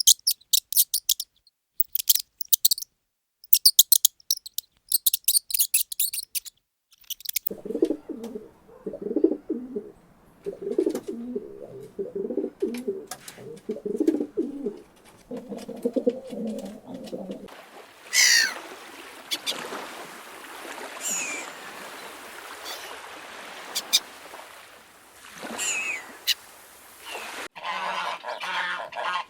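Birds calling in a series of short clips: bursts of high, rapid chirping, then low, repeated cooing, then calls sliding downward in pitch over a steady hiss.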